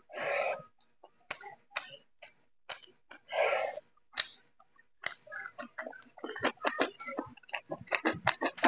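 Close-miked eating sounds of a man eating rice and chicken curry by hand: two short noisy hisses in the first few seconds, then from about five seconds in a quick run of small wet chewing clicks and lip smacks.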